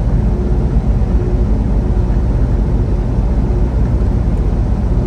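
Semi truck heard from inside the cab while driving: a steady, low rumble of engine and road noise.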